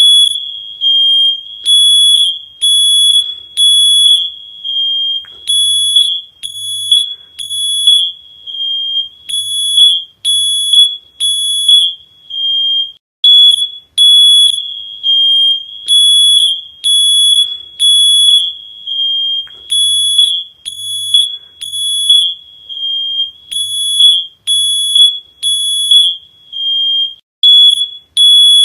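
Shrill electronic alarm beeping at one steady high pitch, repeating about once a second.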